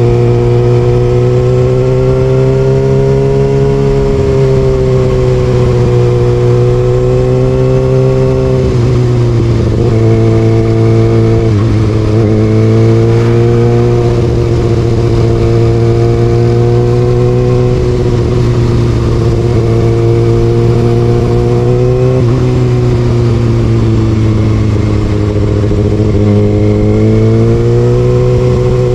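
Kawasaki Ninja ZX6R inline-four with an Austin Racing exhaust, running under way. Its note rises and falls with the throttle and dips sharply twice, about nine seconds in and again near 22 seconds.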